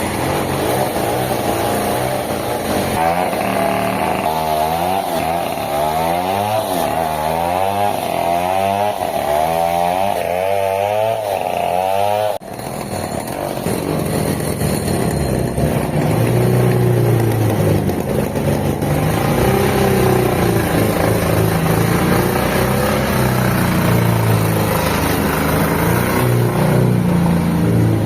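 Sawmill machinery running loud: an engine-driven saw whose pitch wobbles rapidly up and down for the first twelve seconds. After an abrupt break it gives way to a steadier, lower machine drone.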